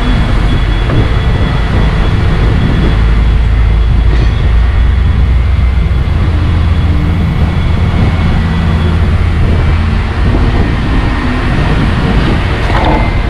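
A heavy diesel truck engine running steadily: a loud, deep, even rumble with a faint high whine above it.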